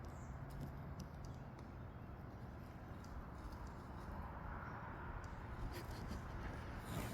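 Faint footsteps of a deer in dry leaves: a few scattered light rustles and ticks over a low, steady background hiss.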